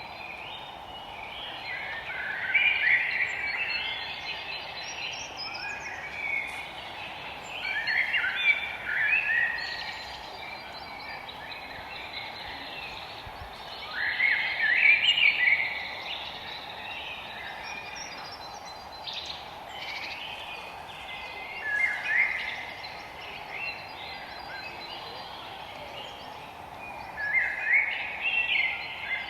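Forest birdsong: a songbird repeats a short, bright, warbling phrase about every six seconds, with fainter calls between, over a steady background hiss.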